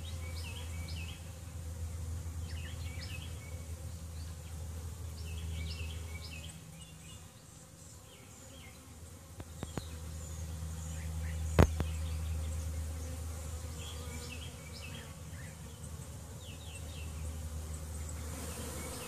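Honey bee swarm buzzing, a steady hum that swells and fades, as the swarm lifts into the air again. Faint high chirps run through it, and a single sharp click comes about eleven and a half seconds in.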